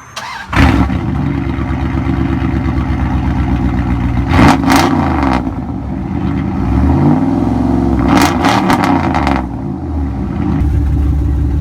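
2003 Dodge Ram 1500's 5.9-litre V8, straight-piped with no catalytic converters or muffler to an 8-inch axle dump, cranks briefly and catches loudly about half a second in, then idles and is revved twice, around four and eight seconds in, before settling back to idle.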